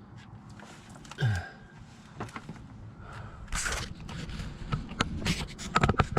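Scattered knocks, clicks and brief scrapes of hands-on work, with a quick cluster of sharp clicks near the end.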